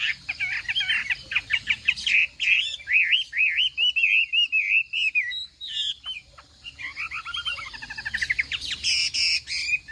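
Chinese hwamei (hoạ mi) singing: fast, varied phrases of rapidly repeated whistled notes with a wavering run in the middle. After a short pause about six seconds in comes a rapid series of falling notes.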